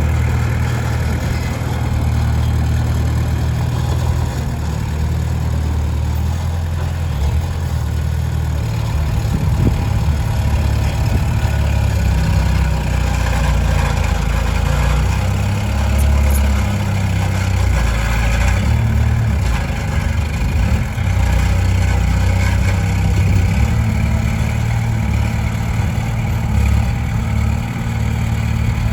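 Komatsu D20P bulldozer's diesel engine running steadily under work, its pitch shifting up and down now and then as it pushes sand.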